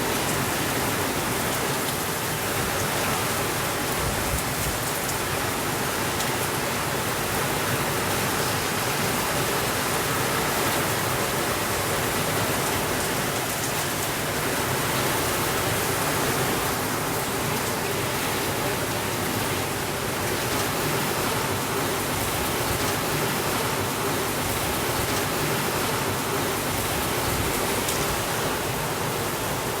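Steady rainfall, a dense, even hiss that holds at one level, with no thunder.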